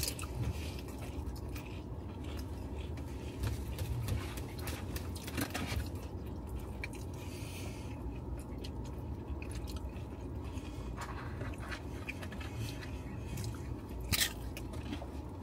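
People chewing and biting food close to the microphone, with wet mouth sounds, occasional crunches and short clicks, over a steady low rumble.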